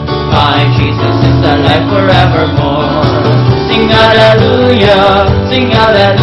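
Worship band music carrying on between sung lines of an upbeat praise song, with cymbal or hi-hat hits on a steady beat.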